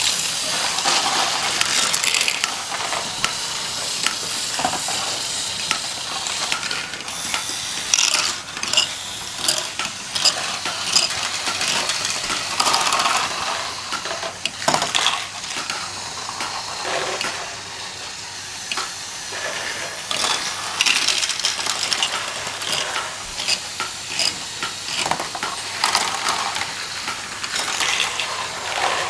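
Small plastic Lego pieces clicking and clattering as they are handled, with irregular sharp clicks and rattles throughout.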